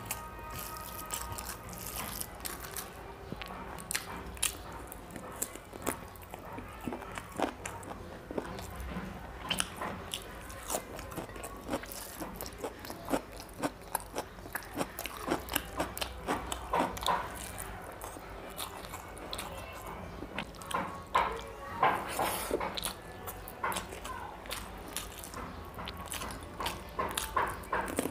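Close-miked eating: wet chewing and lip smacks as chicken curry and rice are eaten by hand, with squishing as rice and gravy are mixed with the fingers. Irregular smacks and clicks come thicker and louder in the second half.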